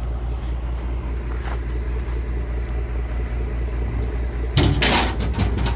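Truck engine running with a steady low rumble. A short loud noise breaks in about four and a half seconds in.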